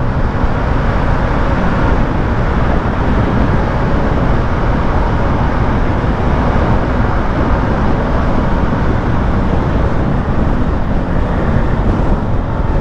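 Steady rush of wind and road noise from a Yamaha Aerox 155 scooter riding through a road tunnel, with the traffic din inside the tunnel mixed in.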